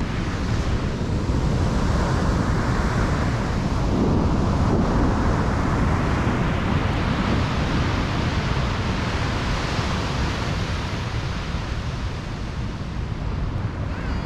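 Surf breaking and washing up a beach, swelling to a peak midway and easing off near the end, with wind rumbling on the microphone.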